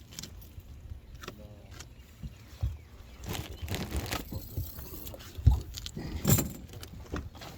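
Wind buffeting the microphone as a steady low rumble, with scattered clicks and knocks; the two loudest knocks come about five and a half and six and a half seconds in.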